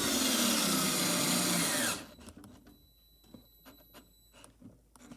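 Power drill running for about two seconds, driving a screw, its whine dropping in pitch as it stops; faint light clicks follow.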